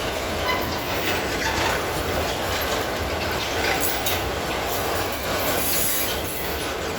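Freight train of pulp wagons rolling past: a steady rumble with irregular clatter of wheels over the rail joints.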